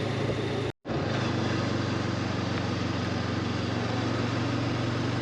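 Honda CB500X's parallel-twin engine running at a steady cruise under wind and road noise. The sound cuts out for an instant just under a second in, then carries on unchanged.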